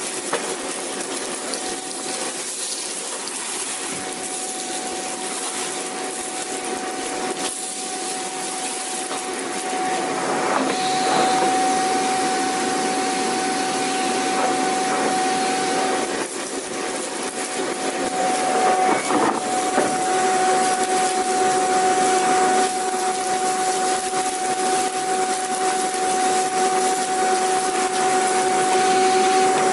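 Vacuum cleaner running continuously: a steady motor whine over an airy hiss. It gets louder about a third of the way in, and a lower hum joins about two-thirds in.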